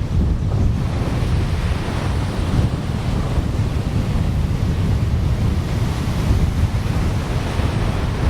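Wind buffeting the microphone with a heavy, fluttering rumble over the steady wash of ocean surf breaking on the beach.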